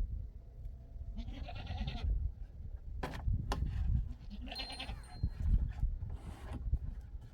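Livestock bleating twice, each call about a second long and wavering, with two sharp clicks between the calls.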